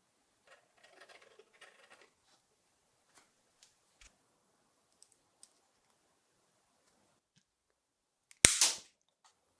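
Faint handling noises and small clicks, then one sharp, loud knock with a quick second hit near the end, like a workshop tool striking a part.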